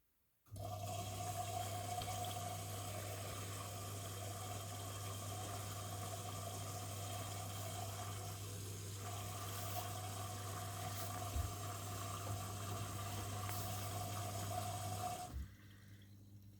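Miele W1 washing machine running water into its drum during the PowerWash stage: a steady rush of water over an electrical hum with a faint steady tone. It switches on abruptly about half a second in and cuts off near the end.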